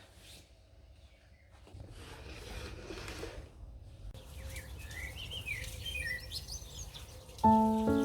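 Small birds chirping in short, quick calls over a faint outdoor hiss, with soft piano music coming in near the end.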